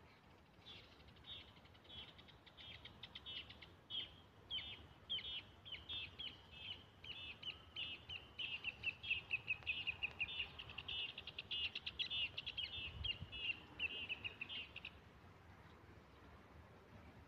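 A bird calling a long series of short, high chirps that start spaced apart, speed up and grow louder in the middle, then stop near the end.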